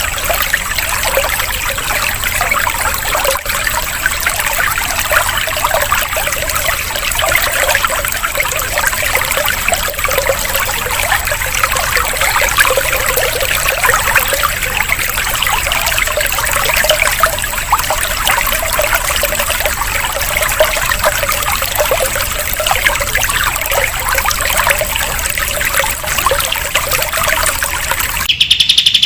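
Running water trickling and splashing steadily, a water-sound relaxation recording. Near the end it cuts off abruptly and a green leafbird (cucak ijo) starts singing.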